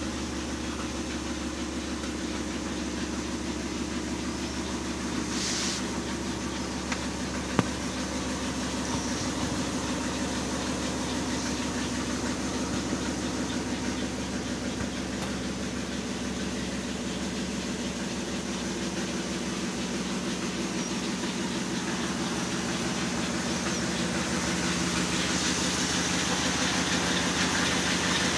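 The 1961 Ford Galaxie's 352 V8 idling steadily, heard from inside the cabin, with one sharp click about eight seconds in.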